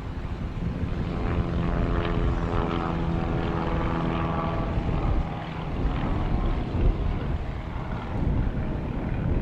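Aircraft engine running close by: a steady droning tone for the first few seconds, giving way around halfway to a rougher, noisier rumble.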